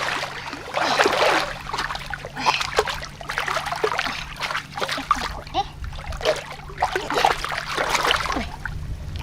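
Shallow pond water splashing and sloshing irregularly as big fish thrash and are grabbed by hand, with gurgles, over a steady low hum.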